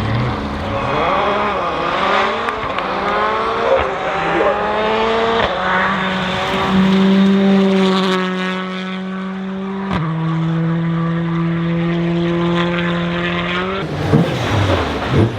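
Rally car engine accelerating hard, its revs climbing and then holding high, with two upshifts about a third and two-thirds of the way through. Near the end the driver lifts off: sharp pops and bangs, with the revs swooping up and down on blipped downshifts.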